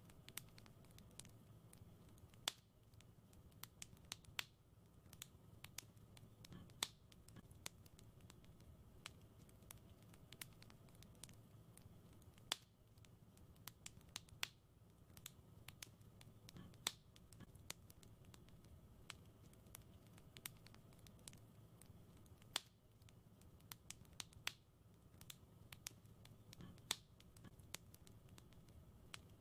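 Wood fire crackling in a fireplace: irregular sharp pops and snaps, a few louder ones among many faint ticks, over a faint low steady rumble.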